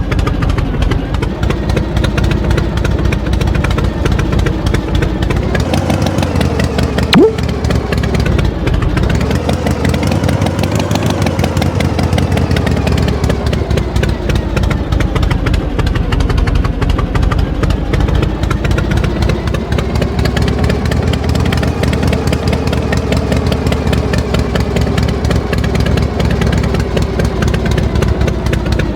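Tractor engine running steadily, its pitch slowly rising and falling as it revs a little up and down. One short sharp click about seven seconds in.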